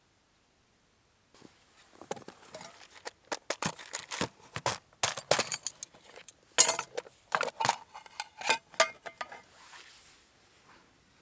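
Irregular clinks, clicks and knocks of hard objects being handled, starting about a second and a half in and thinning out near the end.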